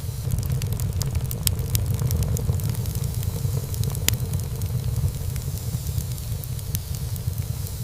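Wood fire burning in a fireplace: a steady low rumble of flames with frequent sharp crackles and pops, one louder pop about four seconds in.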